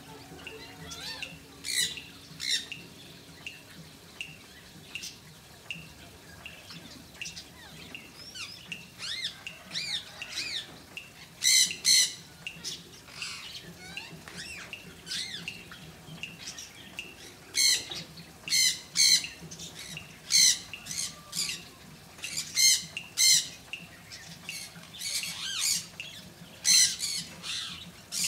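Pet birds giving repeated short, harsh squawks at irregular intervals, with softer chirps in between; the loudest squawks come in quick bunches about midway and through the second half.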